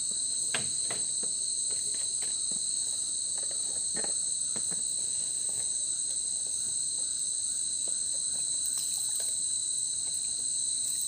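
Steady chorus of night insects in tropical forest, a continuous high-pitched trill at two pitches that never breaks. Now and then a light click or knock sounds through it.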